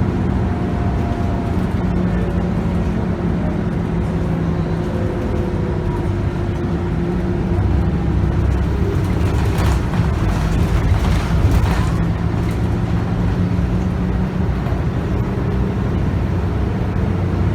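Scania DC9 9.3-litre five-cylinder bus engine running steadily under way, its pitch sliding slowly as the ZF Ecomat automatic gearbox works through its gears. About ten seconds in there are a couple of seconds of rattling and knocks.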